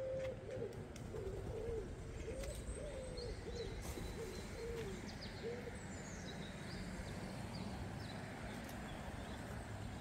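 Birds calling: a low call repeated as a run of short rising-and-falling notes for about the first five and a half seconds, with faint high chirps from small birds throughout.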